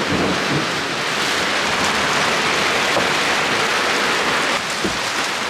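Heavy rain pouring onto a sailing catamaran, a loud, dense, steady hiss that becomes a little quieter near the end.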